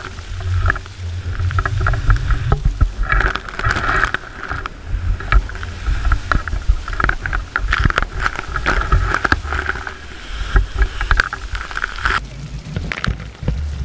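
Onboard sound of a Volvo Ocean 65 racing yacht sailing fast in strong wind and heavy seas: rushing water and spray against the hull and deck over a deep, steady wind rumble, with many scattered sharp hits of water.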